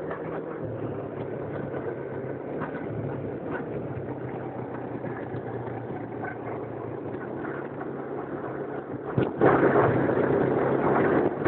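Quad bike engine running steadily at low speed. About nine seconds in there is a click, and the sound turns abruptly louder and rougher.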